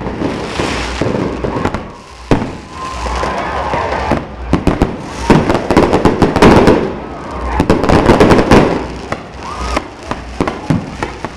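Fireworks going off in rapid volleys of sharp bangs and crackling, thickest and loudest in two bursts around the middle.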